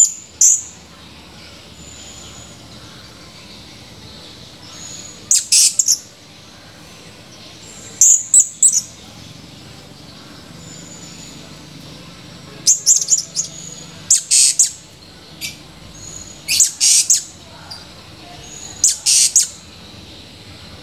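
Blue-crowned hanging parrot (serindit) calling: short, sharp, high-pitched chirps in quick clusters of two to four, repeated every two to three seconds.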